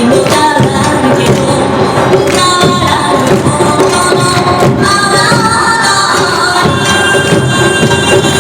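Awa odori festival music: a marching band of drums, hand gongs, shamisen and bamboo flute playing steadily, with voices joining in.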